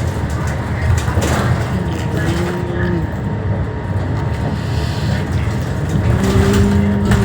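Scania K320HB bus's nine-litre five-cylinder diesel running under way, a steady low rumble heard inside the passenger cabin. About six seconds in, a held engine note comes up and strengthens as the bus pulls.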